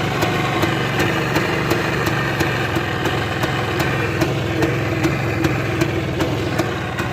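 Motorcycle engine idling steadily just after being started, with a regular sharp tick about three times a second.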